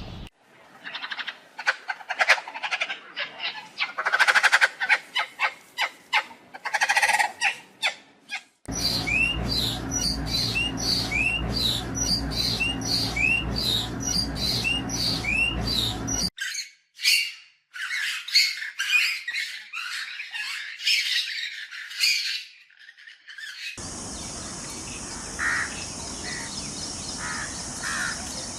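Birds chirping and squawking in a run of short, abruptly cut segments. In the middle stretch a bird gives a regular series of rising chirps over a steady low hum, and near the end a few calls sit over a steady high hiss.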